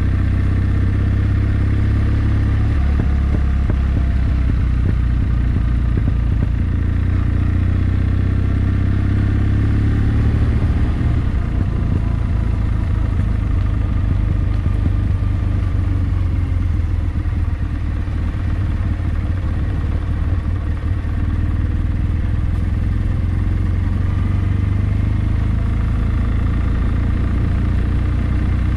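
Kawasaki W650's air-cooled parallel-twin engine running, its note shifting a few times along the way.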